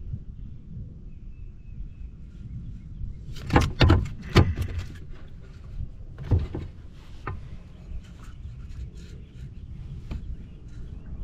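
A quick cluster of sharp knocks and rattles from gear and a fish being handled in a kayak, then a few more single knocks, over a low rumble of wind on the microphone.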